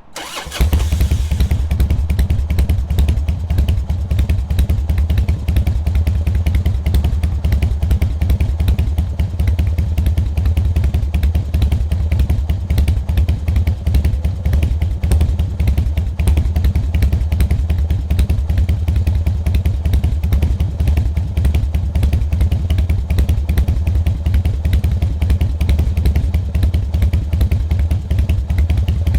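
2003 Harley-Davidson Softail Standard's Twin Cam 88B V-twin idling steadily through an aftermarket muffler, a loud, even, low exhaust rumble that comes in about half a second in.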